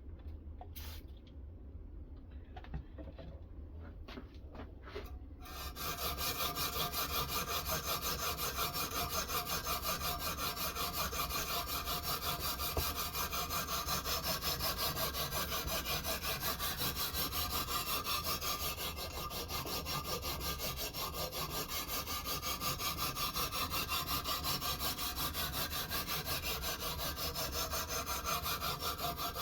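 A few light clicks, then from about five seconds in a sharpening stone is rubbed in fast, steady back-and-forth strokes along a clamped knife edge on a guided sharpening system: a gritty, rasping scrape.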